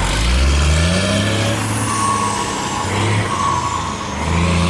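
A road vehicle's engine accelerating. Its pitch climbs over the first second or so, levels off, then climbs again near the end as it pulls through the gears.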